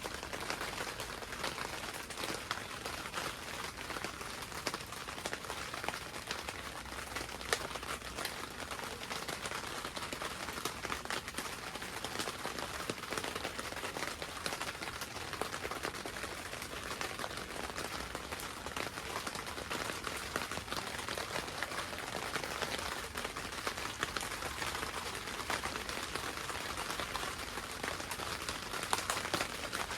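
Steady rain pattering on a greenhouse roof, heard from inside as a dense, even hiss of many small drop ticks.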